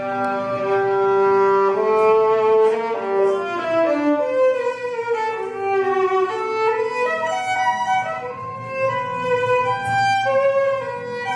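Solo violin playing a slow melody of long, sliding notes.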